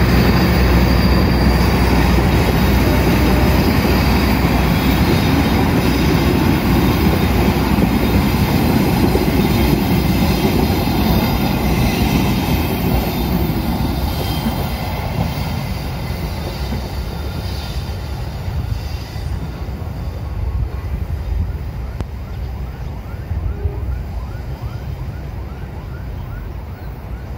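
Passenger train coaches rolling past on the rails: a steady rumble of wheels on track that fades as the train draws away, growing quieter from about halfway through.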